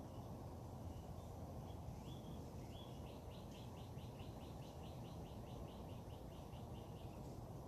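A songbird singing: a few short notes, then a fast even series of repeated short notes, about four or five a second, lasting some four seconds. A steady low background noise runs underneath.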